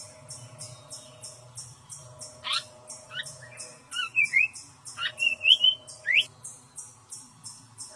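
A bird calls with sharp rising whistles and short, squawky chattering phrases, loudest about midway. A steady high insect chirr pulses about three times a second throughout.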